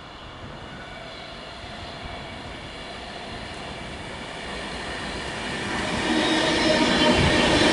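Class 390 Pendolino electric train approaching and passing at speed. Its wheel-on-rail rush grows steadily louder, with steady high ringing tones over it, and becomes much louder about six seconds in as the train reaches the platform.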